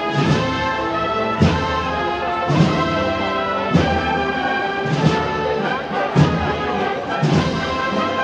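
Wind band playing a slow Holy Week processional march: held brass and woodwind chords over a bass drum struck about every 1.2 seconds.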